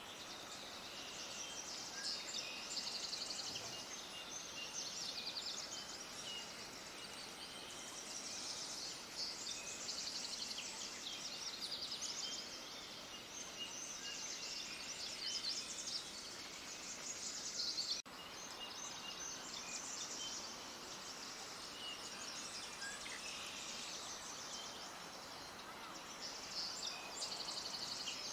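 A chorus of many small birds chirping and trilling at once, dense and overlapping, all high-pitched. There is a brief dropout about two-thirds of the way through.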